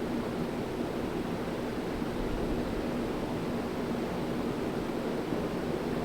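Hunter Greenwich 52-inch ceiling fan running steadily: an even whoosh of moving air with a faint low motor hum.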